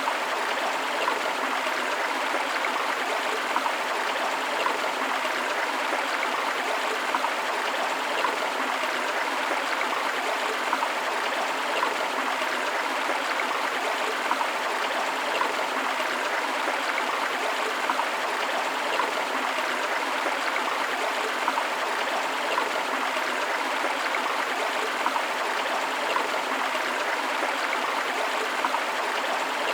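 River water flowing and splashing steadily, a continuous hiss with small frequent splashes and gurgles.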